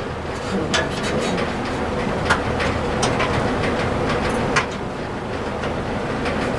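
Scattered light clicks and knocks of wiring and small parts being handled behind a pickup truck's dashboard, over a steady background noise.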